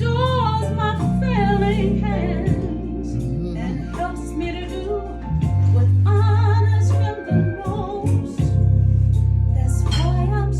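Music with a solo singing voice held on long notes with a wide, wavering vibrato, over sustained low bass or organ notes.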